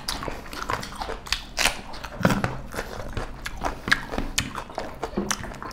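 Close-up chewing and lip-smacking of people eating beef curry and rice with their hands: an irregular run of small clicks and smacks.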